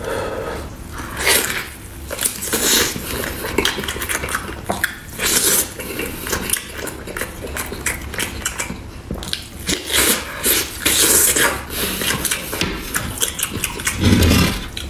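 Close-miked eating sounds of a man biting and chewing boiled beef rib meat: irregular smacking and crackly mouth noises, several a second, with a louder burst near the end.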